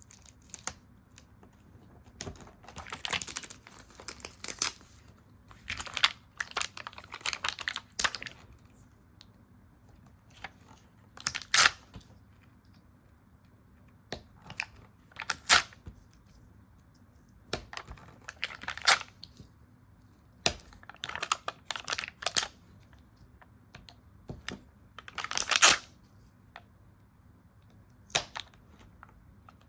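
Stickers being peeled and handled on paper: short crackly peeling and rustling bursts every few seconds, with sharp ticks and taps in between.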